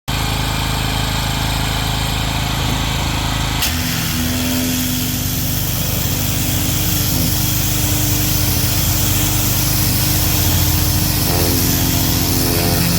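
Motor-driven power equipment running steadily, with a constant hiss over the drone. About three and a half seconds in the sound changes abruptly to a different steady machine drone.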